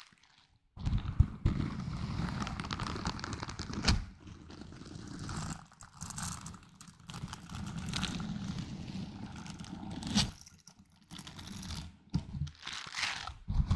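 Close-miked ASMR handling of small objects: irregular scratching, crinkling and tapping with sharp clicks, broken by a couple of short pauses.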